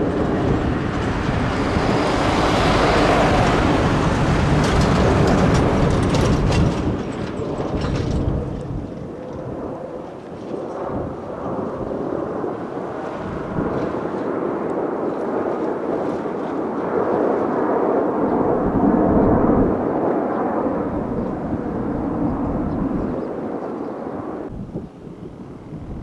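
Kawasaki T-4 jet trainers flying past: loud jet engine noise that swells in the first seconds, eases off, swells again past the middle, then drops away near the end.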